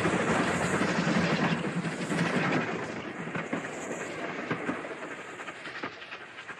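A train running along the track, fading steadily away.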